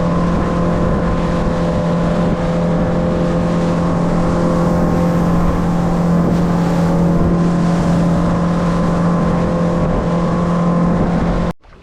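Boat's outboard motor running steadily at speed, a constant drone under a loud rush of wind and water noise. It cuts off suddenly near the end.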